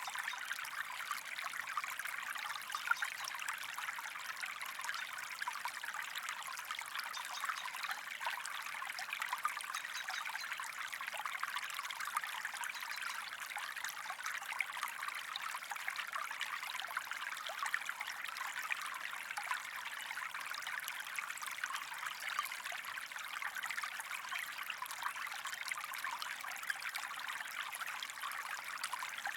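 Small stream trickling and babbling steadily, with no breaks.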